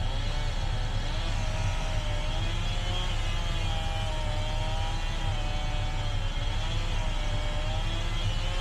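An engine running steadily, with a whine that wavers slowly up and down in pitch.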